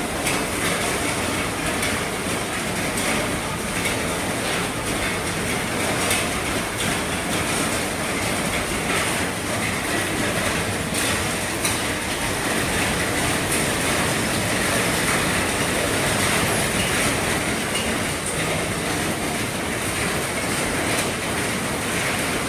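Heavy rain drumming steadily on an RV's roof, a dense, even patter of drops.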